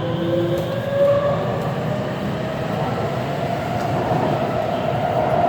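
Taipei Metro C341 train running, heard from inside the car: a steady rumble of running noise with a motor whine that rises slowly in pitch.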